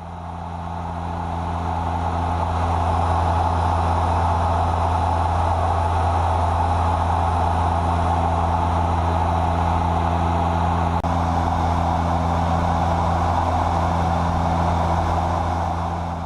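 Steady drone of a DHC-6 Twin Otter's twin PT6A turboprop engines and propellers heard inside the cockpit: a deep, even propeller hum under a broad rushing noise. It swells up over the first couple of seconds.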